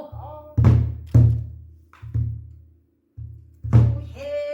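Pansori buk barrel drum played by the gosu: deep palm thumps on the drumhead mixed with sharp stick cracks, about six strokes in a loose rhythm filling the gap between sung phrases. The three sharpest cracks fall just past half a second, a little past a second, and near the end.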